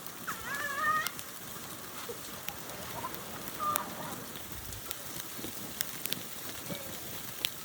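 A short high-pitched shriek from a young person's voice near the start and a brief call later, over a steady crackly hiss with scattered small clicks, from play outdoors in a heavy snowstorm.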